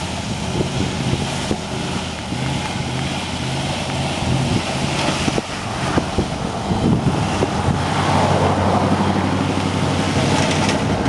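Dodge pickup truck engine running steadily as the truck drives across a field, with wind rumbling on the microphone; it gets a little louder about eight seconds in.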